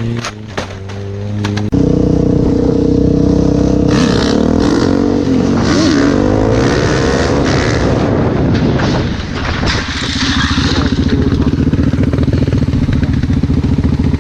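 A motorcycle engine running loud. It starts suddenly after a few sharp clicks, rises and falls in pitch through the middle, then settles into a steady run near the end.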